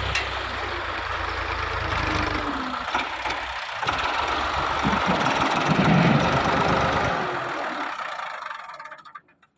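Tractor engine running with a steady low rumble. The rumble drops out about seven seconds in and the remaining noise fades away near the end.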